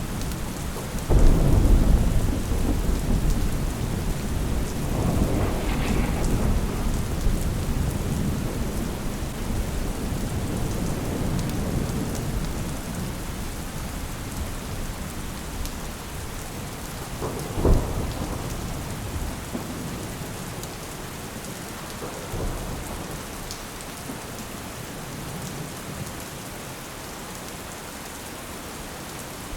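Steady rain with rolling thunder. A loud peal comes about a second in and rumbles on for several seconds, a sharper clap follows a little past halfway, then a fainter rumble, and the storm eases toward the end.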